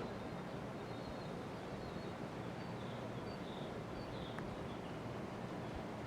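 1983 Casablanca Panama five-blade ceiling fan running steadily, a soft even whoosh with no clear pitch. Faint high chirps come and go over it, and one small tick sounds about four and a half seconds in.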